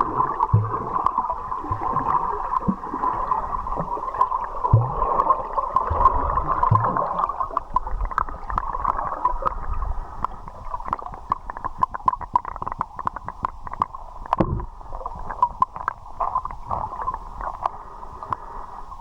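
River water gurgling around the swimmer, with many small clicks and pops. There are short low falling gurgles in the first several seconds and a single low thump about two-thirds of the way through.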